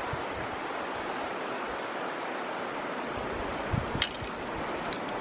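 Mountain brook rushing steadily over rocks, with a few sharp clicks near the end.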